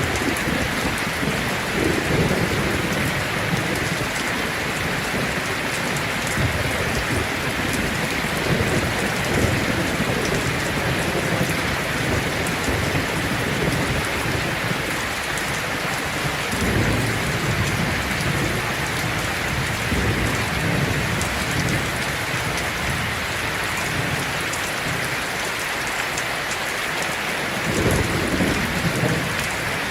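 Heavy rain falling steadily on a tin roof, with rolls of thunder rumbling under it, one about halfway through and another near the end.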